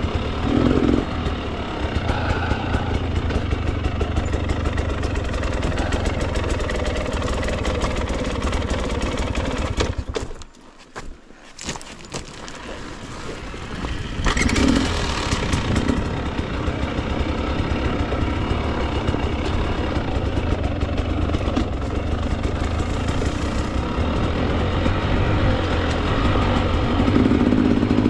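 Husqvarna TE 300 two-stroke dirt bike engine running on the trail. About ten seconds in it cuts out for roughly three seconds, then is started again and runs on.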